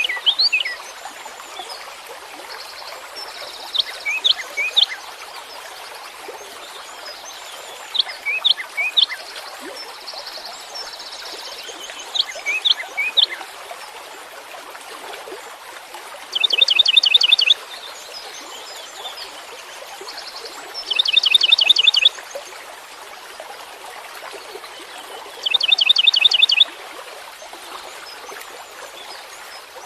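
Songbird singing in repeated phrases about four seconds apart. The first few phrases are clusters of short sweeping whistled notes; from about halfway, each phrase is a rapid trill lasting about a second. A steady hiss like running water lies underneath.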